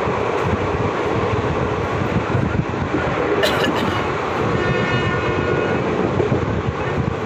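Train running at speed, heard from on board: a steady rumble and rattle of wheels on the rails, with a brief sharp noise about halfway through.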